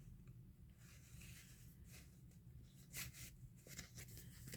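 Near silence with faint rustling of paper being handled, a few soft rustles and taps about three seconds in.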